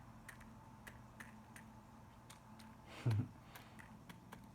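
Laughing dove pecking at seed, a string of sharp irregular clicks as its beak strikes the food. A brief low sound stands out about three seconds in.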